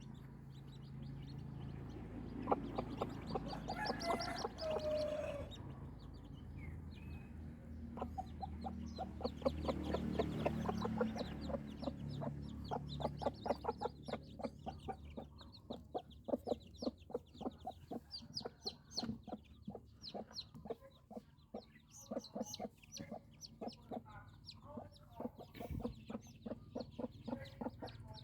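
Chickens clucking, a dense run of short, rapid calls.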